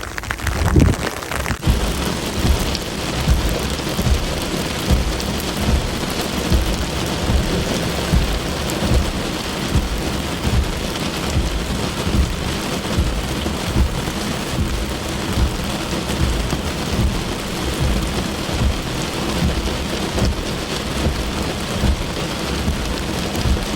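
Steady rain falling, a continuous hiss with frequent low thuds underneath, settling in about two seconds in.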